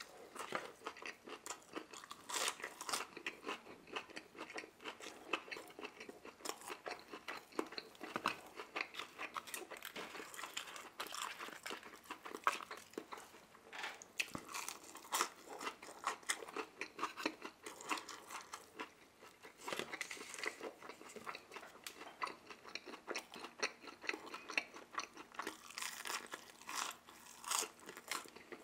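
Close-miked chewing and crunching of McDonald's Chicken McNuggets, with many short, irregular crunches of the fried breading and wet mouth sounds.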